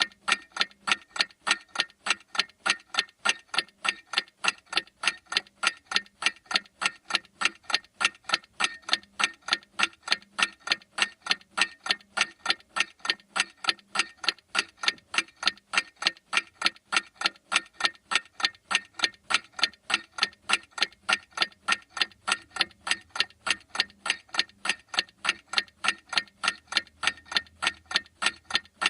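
A clock ticking steadily, with sharp, evenly spaced ticks a few times a second.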